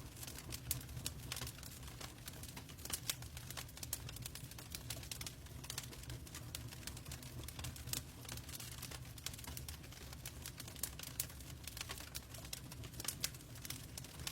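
Wood fire crackling in a fireplace: irregular sharp pops and snaps, several a second, over a steady low rumble and a soft hiss of rain.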